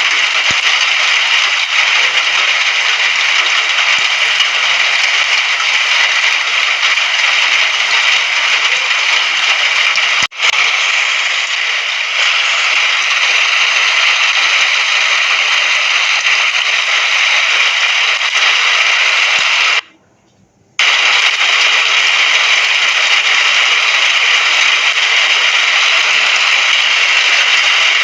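Steady, dense rain hiss with no thunder. It dips for an instant about a third of the way in and cuts out completely for about a second two-thirds of the way through before resuming.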